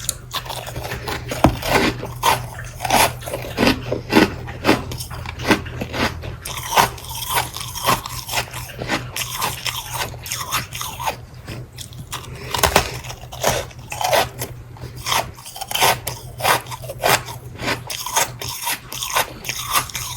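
Close-miked biting and chewing of ice, with repeated irregular crunches and scraping, with a steady low hum underneath.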